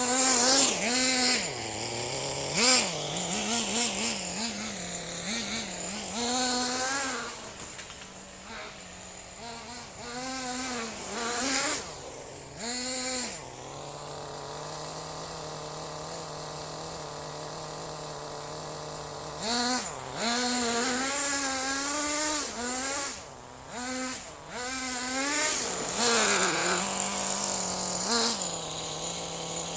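Small nitro RC buggy engine running on castor-oil-lubricated fuel. It is revved up and down in repeated short bursts and settles to a steady idle for about five seconds midway before being revved again.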